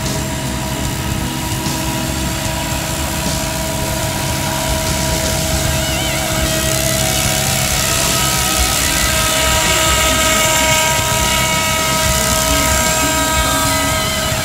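Electric scale RC model of a Bell 212 Twin Huey helicopter in flight: a steady whine of the electric motor and drive gears over the whir of the rotor blades, growing a little louder through the middle as it passes.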